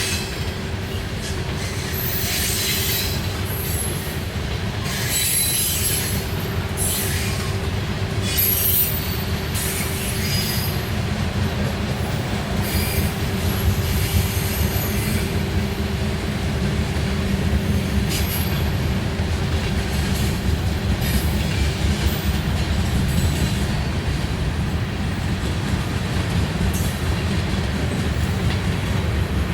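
Freight train cars rolling past: a steady low rumble of wheels on rail, with repeated short bursts of high-pitched wheel squeal and clatter, most of them in the first half.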